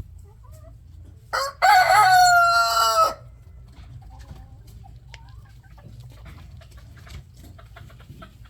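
Rooster crowing once, about a second and a half in, a short note and then a long falling call lasting about two seconds, with faint chicken clucking around it.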